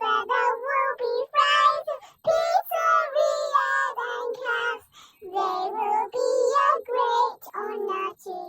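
A high-pitched voice singing a melody in short phrases and held notes, with a brief pause about halfway through.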